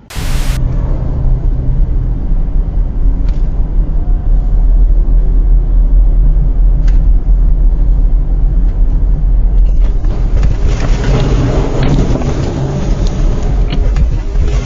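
Loud, steady vehicle rumble, heaviest in the low end, starting abruptly with a short burst of noise. It grows fuller and rougher about ten seconds in.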